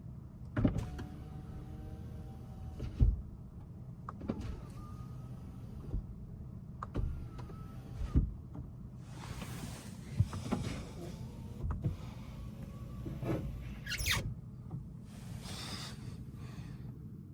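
Mercedes-Benz CL63 AMG rear side power window running up and down several times, the motor whirring and the glass sliding against its rubber seal, with a knock each time it stops. A steady low hum runs underneath.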